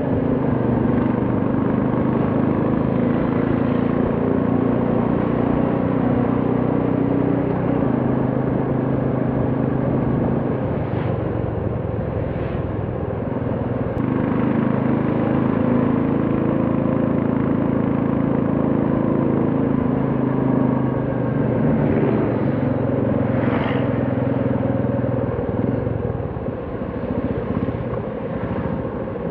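Royal Enfield Classic 350's single-cylinder engine and exhaust running steadily while riding, with road and wind noise. Its pitch shifts a few times, and near the end the note falls away as the bike slows.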